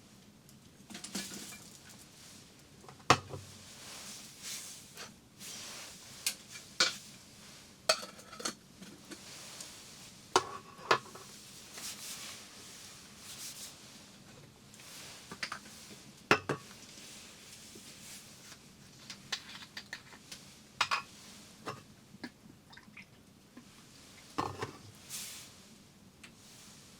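Cookware and cutlery being handled: irregular clinks, knocks and scrapes of utensils against pots and dishes, with a couple of sharper knocks.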